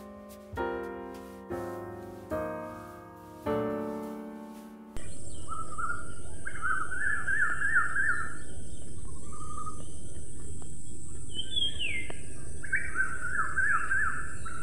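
Piano notes struck one at a time and left to ring, cutting off about five seconds in to outdoor sound: a steady background hiss with a bird calling in fast, repeated chirping phrases, in two runs, and one higher down-slurred call between them.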